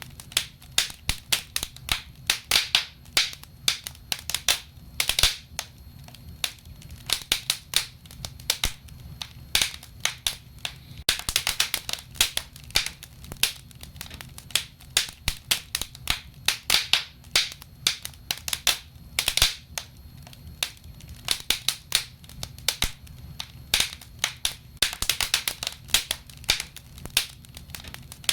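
Wood fire burning in a fireplace: a steady run of irregular sharp crackles and pops over a low, even rumble, busiest in clusters about 11, 17, 19 and 25 seconds in.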